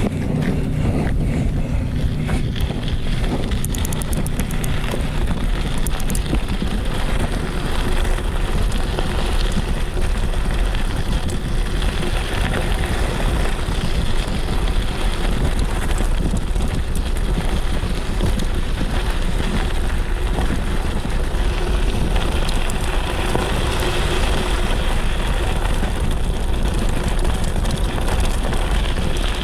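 Wind buffeting the microphone over the running noise of a mountain bike on a dirt trail, with scattered clicks and rattles.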